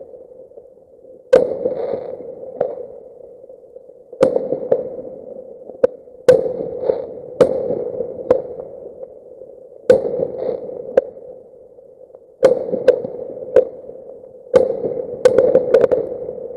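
Fireworks exploding: about a dozen sharp, irregular bangs a second or so apart, each with a short echoing tail, crowding together near the end, over a steady hum. The recording is played at double speed.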